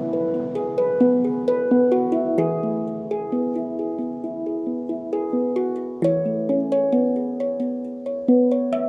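Handpan being played: a steady flow of struck notes, each with a sharp attack and a long ringing decay, overlapping into a melody.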